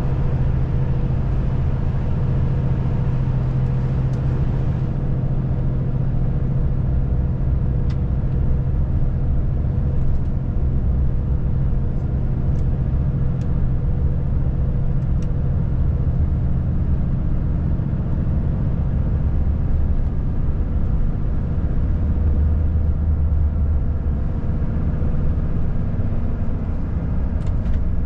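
Volvo FH540 truck's 13-litre six-cylinder diesel running steadily under way, a constant low drone with road noise and a few faint ticks.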